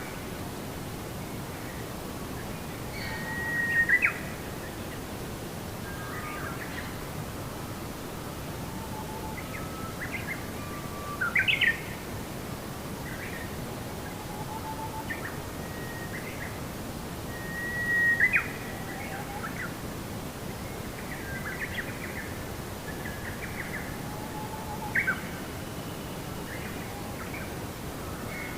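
Birds chirping and calling outdoors: scattered short chirps and whistles over a steady background hiss, with a louder call about every seven seconds.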